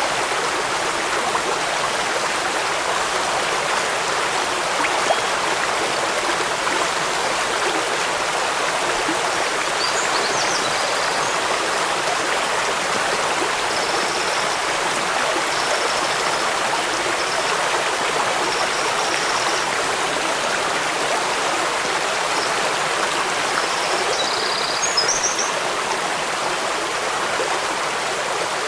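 Stream water running steadily over rocks, an even rushing with no pauses. A few faint, short high chirps come through about ten seconds in, again in the middle and near the end.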